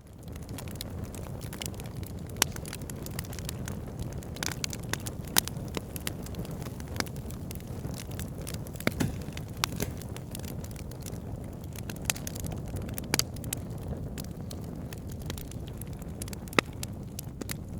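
Wood fire burning in a fireplace: a steady low rumble of flames with frequent small crackles and a sharper pop every few seconds.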